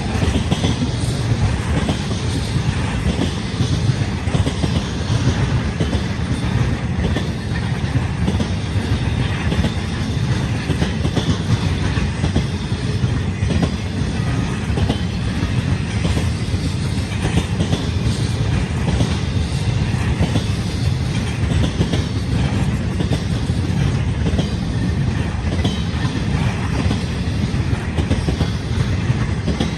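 Freight train of empty articulated single-stack spine cars rolling past, a steady low rumble with a dense, continuous clatter of wheels over the rail joints.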